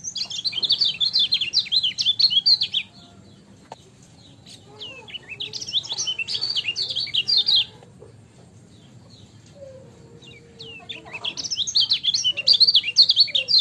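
A white-eye (kecial kuning) singing fast, high twittering phrases in three bursts of about three seconds each, with short pauses between.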